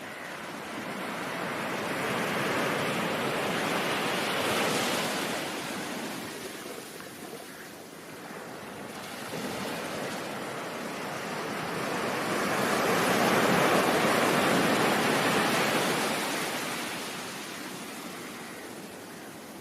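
Ocean surf: a steady rush of breaking waves that swells and recedes, with two broad surges and a lull between them.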